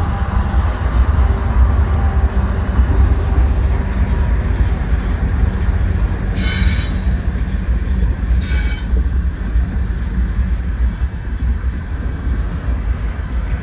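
A diesel-hauled freight train of tank cars passing close by with a heavy, steady rumble of wheels on rail. Two brief high-pitched metallic squeals come from the train, about six and a half and eight and a half seconds in.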